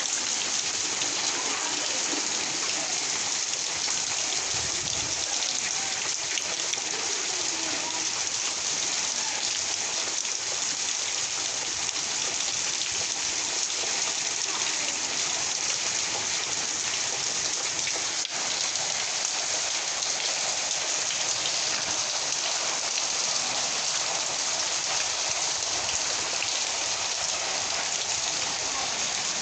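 Steady rain falling, a dense even patter of drops that neither builds nor eases.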